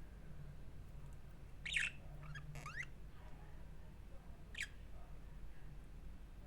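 Pet budgie chirping: one loud sharp call a little under two seconds in, then a few short rising chirps, and another short call a couple of seconds later, over a steady low hum.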